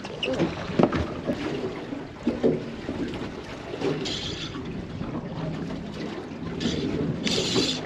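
Water lapping and splashing around a small fishing boat, with wind buffeting the microphone and a few short hissing rushes in the second half.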